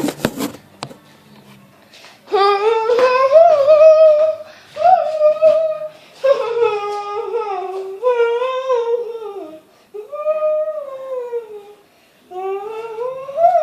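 A few quick clicks in the first second, then a high voice humming a wordless, gliding tune in about six short phrases.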